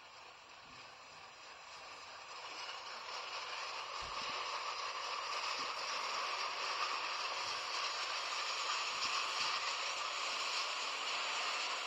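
Train rolling on the rails: a rushing, rattling noise that grows louder over the first six seconds, then runs steadily.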